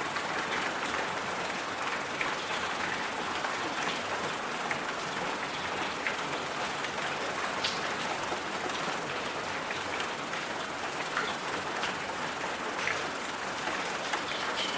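Steady rain noise: an even hiss with scattered small ticks of drops landing.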